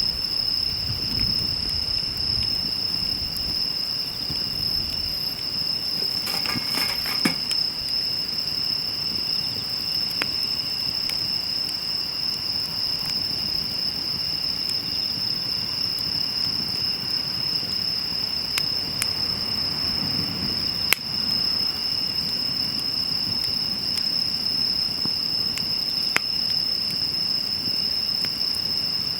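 Wood fire burning with a low rumble and a few sharp crackling pops, the loudest a little past two-thirds of the way in. Over it runs a steady, high-pitched chirring of insects.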